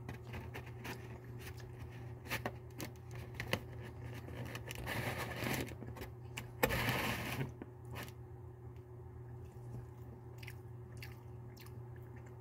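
A person biting into and chewing a mouthful of barbecue rib sandwich close to the microphone: soft wet mouth clicks and smacks, with a louder stretch of chewing around five to seven seconds in.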